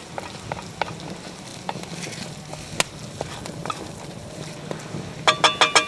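Scattered light clicks and taps of cooking utensils on cookware. Near the end comes a quick run of about six ringing metallic taps, a metal utensil knocked against the rim of the cookware.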